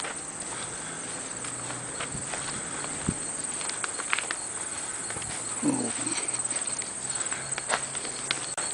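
Crickets chirring in a steady high trill, with scattered light clicks and taps.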